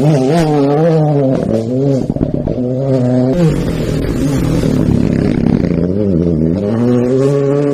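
Rally car engine revving hard, its pitch climbing and dropping again and again as the driver works through the gears, with a sharper drop about three and a half seconds in before it builds again.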